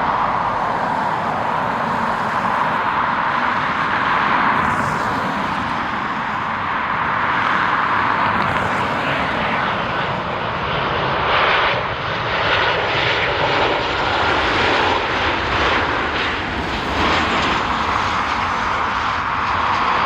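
Jet airliner engines running, a steady rushing noise that swells and eases a little, turning rougher and crackly about halfway through.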